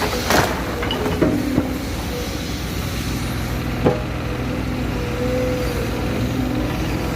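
Heavy diesel engine running steadily, with a few sharp knocks, the loudest about four seconds in.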